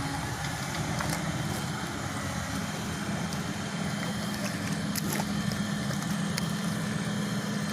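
4x4 pickup truck engine running steadily, a low even hum with a few faint sharp clicks.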